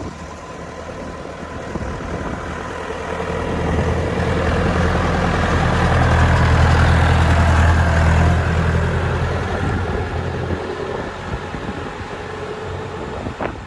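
A vehicle engine running with a steady low hum. It grows louder to a peak about halfway through, then eases off.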